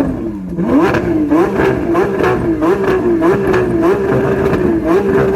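Car engine revved up and held at high revs, its pitch climbing over the first second, then dipping and climbing again over and over.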